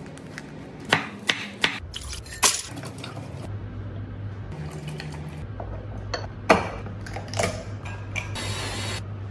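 Kitchen handling sounds: several sharp clinks and knocks of dishes and containers being picked up and set down, over a low steady hum that comes in about three and a half seconds in.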